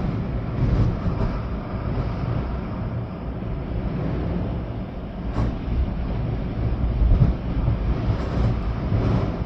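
Storm wind gusting with rain: a steady rush of noise over a deep, uneven rumble of wind buffeting the microphone, with a few stronger gusts surging through.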